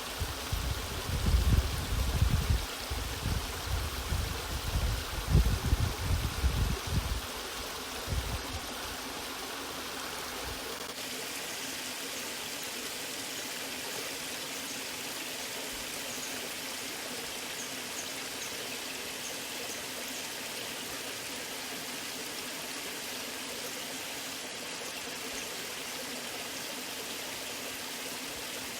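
Water rushing steadily at a natural waterfall, an even, continuous hiss of falling and flowing water. Irregular low rumbling buffets lie over it for the first seven or eight seconds, then stop.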